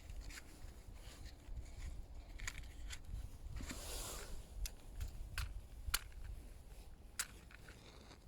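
A handful of sharp, separate clicks and small snaps, with a short rustle about four seconds in, as a campfire is laid and lit by hand.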